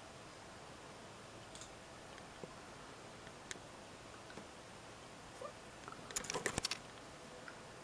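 Faint, scattered computer keyboard keystrokes, with a quick run of rapid key presses about six seconds in.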